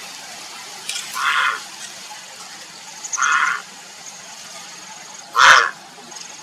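Grey heron giving three harsh calls about two seconds apart, each about half a second long, the last the loudest: the heron calling for a mate.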